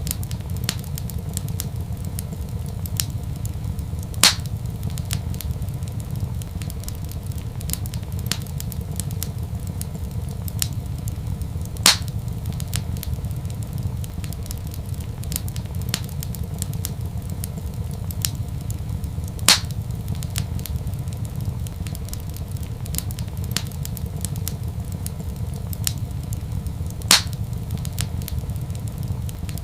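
Wood fire in a fireplace crackling over a steady low rumble, with small crackles throughout and a louder sharp pop four times, evenly about seven and a half seconds apart.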